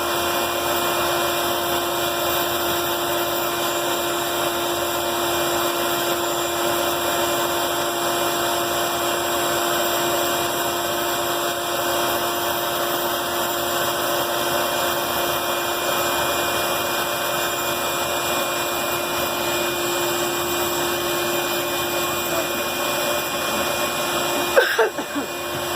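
Band saw running steadily with an even hum and whine while wood is fed slowly through the blade. The noise dips briefly near the end.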